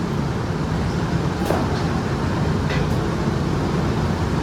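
Steady drone of factory machinery with a low hum, and a few short clicks near the middle.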